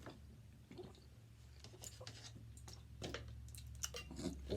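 Quiet eating: scattered soft clicks and small mouth noises of someone eating, over a low steady hum.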